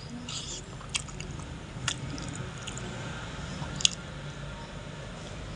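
Close-up wet chewing and mouth-smacking of a man eating rice and fish curry by hand, with three sharp smacking clicks: about one second in, about two seconds in, and near four seconds.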